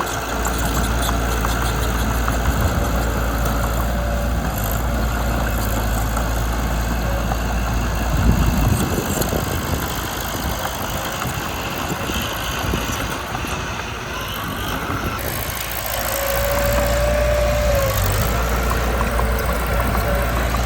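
Mitsubishi BD2 bulldozer's diesel engine running steadily with a deep hum that drops away for several seconds in the middle and then returns, and a brief high whine about three-quarters of the way through.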